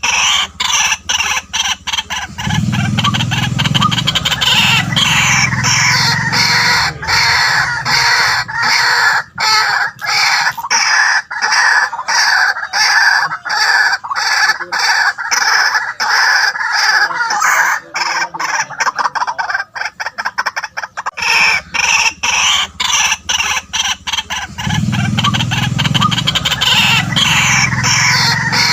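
White-breasted waterhens calling: a long, loud run of rapidly repeated croaking notes, with deeper notes joining in about two seconds in and again near the end.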